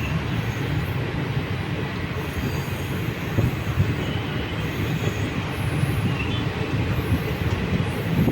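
Passenger train running along the track: a steady low rumble of wheels on rails.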